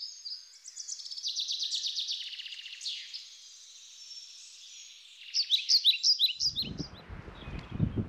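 Birds singing, with rapid trills and sharp chirps, for about six seconds. Then the birdsong cuts off and a low, uneven rumble with thumps takes over.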